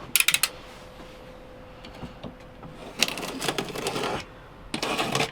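A cardboard parcel being cut and torn open: a quick run of sharp clicks just after the start, then longer rasping stretches of tape and cardboard tearing about three seconds in and again near the end.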